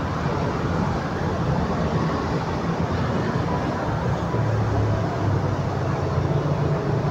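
Passenger train running slowly past toward the station, a steady rumble of engine and wheels.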